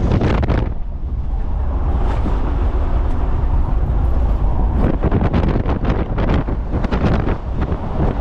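Wind buffeting the microphone over the low rumble of a moving vehicle, with a flurry of sharper crackles from about five seconds in.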